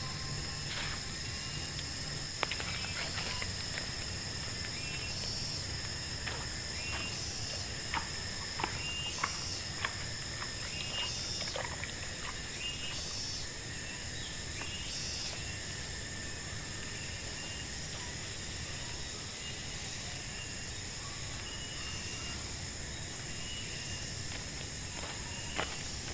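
Tropical forest ambience: insects droning steadily in high, unbroken tones, with short high chirps repeating every second or two. A few sharp clicks or knocks are scattered through it.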